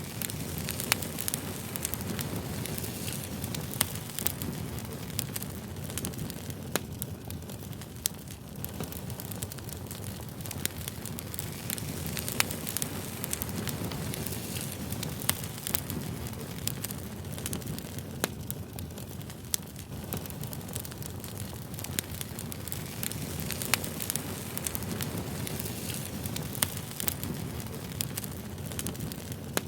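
Campfire crackling and popping: irregular sharp snaps over a steady low rush of burning wood.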